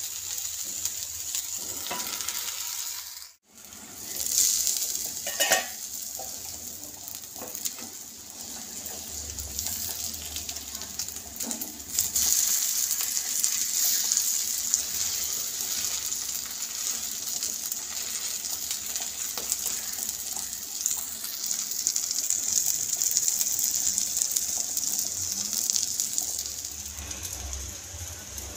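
Stuffed capsicum rings shallow-frying in oil on a flat nonstick griddle, with a steady sizzle. A few clicks and scrapes of a wooden spatula against the pan come through, and the sound cuts out briefly a few seconds in.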